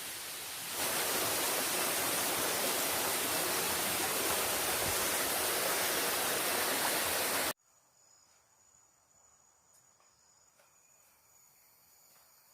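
Steady rushing of a forest stream's water, close and loud, growing louder about a second in. It cuts off abruptly about seven and a half seconds in, leaving quiet forest with a steady high buzz of insects.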